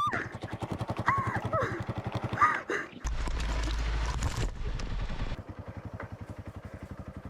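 Single-cylinder motorcycle engine idling with an even, fast pulse, about ten beats a second. A few brief vocal gasps come early on, and a rush of rumbling noise lasts for about two seconds from around three seconds in.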